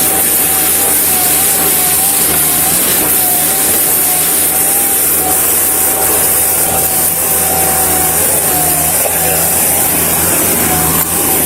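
A motor running steadily, with a slightly wavering whine over a loud, constant hiss.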